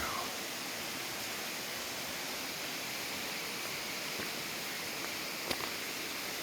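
Steady hiss of rushing water, with one sharp tick about five and a half seconds in.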